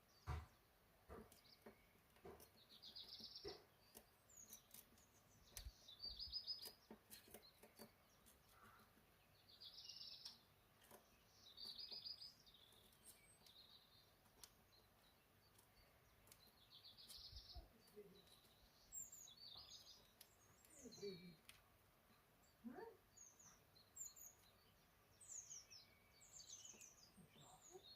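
Small birds chirping faintly: short high chirps repeated every few seconds, coming quicker and more varied in the second half, with scattered faint clicks.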